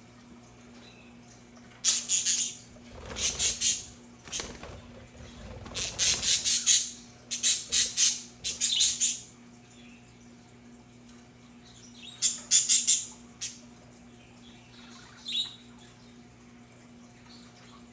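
Budgerigars squawking and chattering in short bursts of harsh, high calls separated by quiet gaps, with a single call near the end. A faint steady hum runs underneath.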